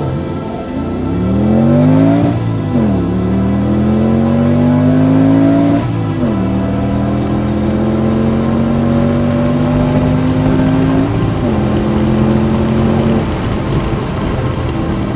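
A 5.2-litre V10 in an Audi S6 accelerating hard through a manual gearbox. The revs climb three times, each climb cut off by an upshift about 2, 6 and 11 seconds in. After the last shift the engine holds steady and fades near the end.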